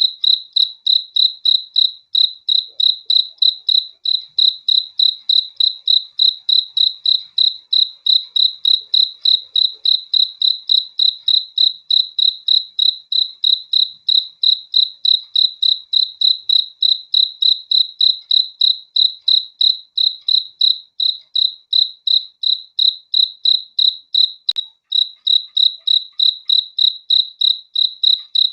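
A cricket chirping in a steady, even rhythm of high-pitched chirps, a few each second, never pausing.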